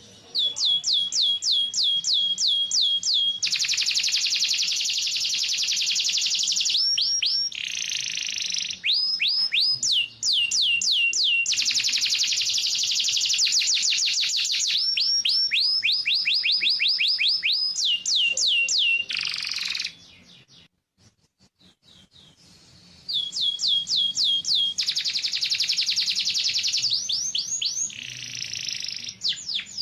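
Yellow canary singing: fast runs of repeated sweeping high notes and rapid trills, breaking off for a few seconds about two-thirds of the way through before resuming.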